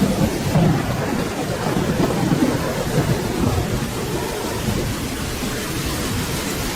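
Steady rain falling, with a low rolling rumble of thunder underneath that is strongest in the first few seconds.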